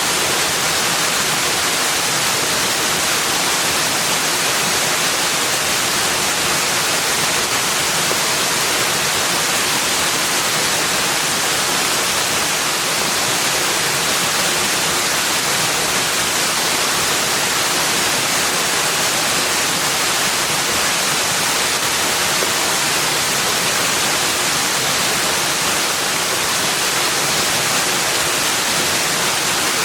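Steady rushing of water, an even hiss without breaks or individual splashes.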